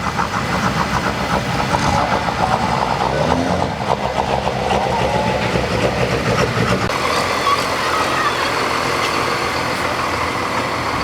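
Diesel truck engine running with a steady, fast firing rattle; its low rumble drops away about seven seconds in.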